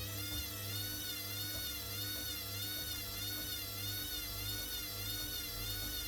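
Hoover WDYNS654D washer-dryer's motor whining during its spin, its pitch wavering up and down about once a second, over a low hum that pulses in step.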